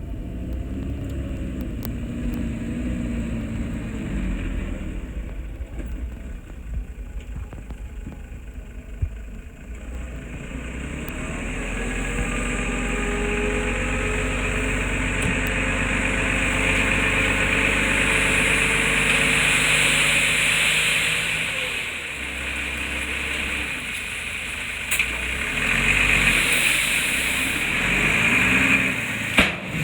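Diesel engine of heavy earthmoving machinery running under load. It builds up from about ten seconds in, eases off a little past twenty seconds, then picks up again near the end.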